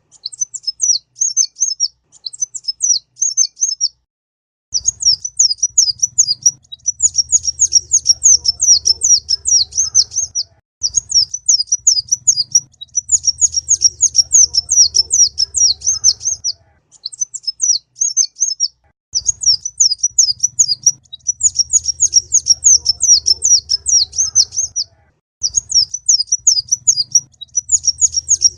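Kolibri ninja sunbird singing: rapid strings of high, thin chirping notes in phrases of a few seconds, separated by short pauses.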